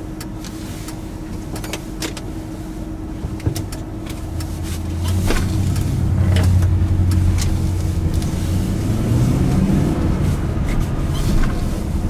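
Pickup truck running, heard from inside the cab. The engine grows louder about four seconds in, with rattles and knocks from the cab, and the engine note rises again near the end.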